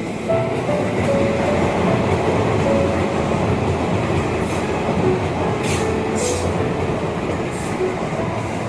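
A train running past, a steady rumbling rail noise with a few short high hisses or squeals about six seconds in. Faint background music plays underneath.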